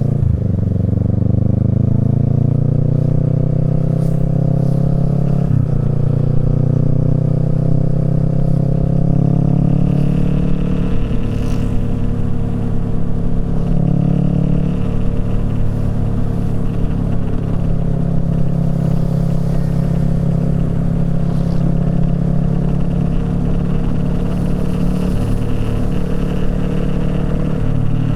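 Kawasaki Z650's parallel-twin engine through a Yoshimura Alpha exhaust, accelerating with the pitch climbing, with a short break for an upshift right at the start and another about five seconds in. After about ten seconds it settles at a nearly steady pitch while cruising.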